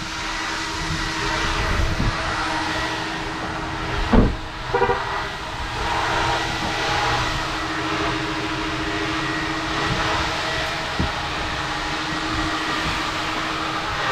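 Automatic car wash machinery running, heard from inside the car: a steady rushing noise over a low hum, with two short thumps about four seconds in.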